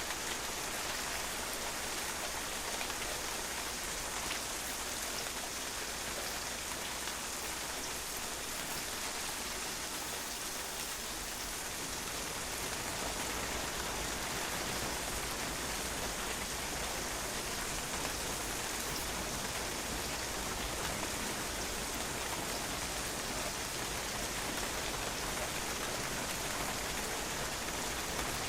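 Steady rain falling on a patio, drops spattering on the hard surface as an even hiss with scattered individual drop ticks.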